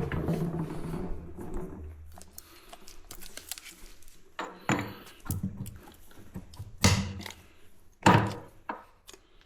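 A low rumbling hum for the first two seconds, then a series of separate knocks and clunks, five or six in all, the loudest two about a second apart near the end, typical of parts and tools being handled during an engine repair.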